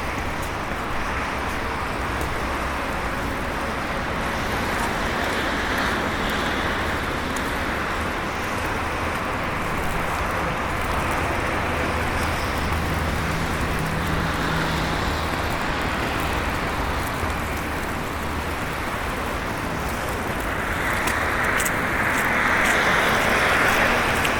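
City street traffic: a steady hiss of cars passing, swelling as each vehicle goes by, with a low engine hum in the middle and the loudest pass near the end.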